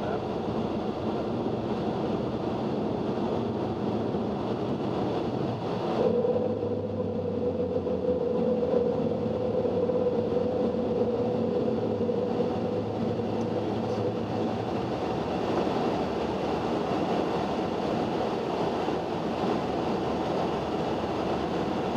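Boeing 737-800 flight-deck noise in the climb just after takeoff: a steady rush of airflow and engine noise. About six seconds in there is a sharp thump, followed by a steady hum lasting several seconds.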